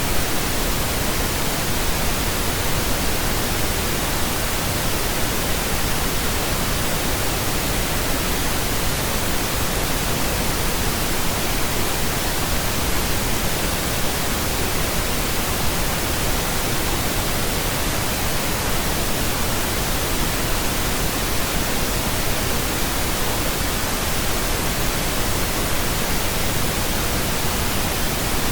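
Steady synthetic pink noise: an even, unbroken hiss spread across low and high pitches, with no change in level.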